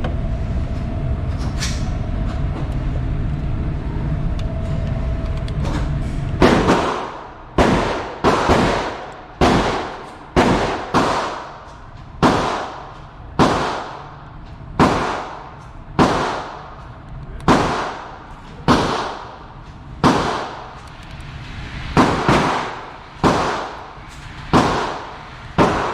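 About six seconds of steady background noise, then a string of about twenty handgun shots at a slow, roughly one-a-second pace, each sharp crack followed by a short ring-out.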